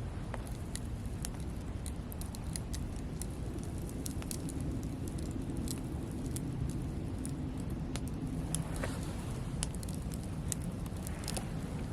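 Campfire crackling: irregular sharp pops and snaps from burning wood over a steady low rumble.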